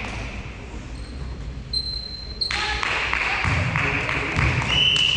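Volleyball play in a sports hall: thuds of the ball and players' feet, short high squeaks, and a brief rise of voices. A long, steady high-pitched tone starts near the end.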